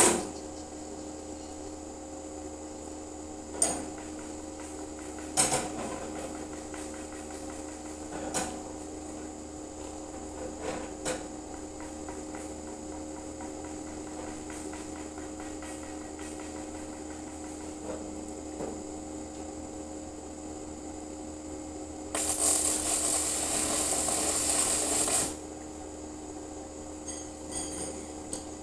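Steel drain-grate metalwork: several separate sharp clanks and knocks of metal. About two-thirds of the way through comes a roughly three-second burst of dense hissing noise from a short arc weld, over a steady electrical hum.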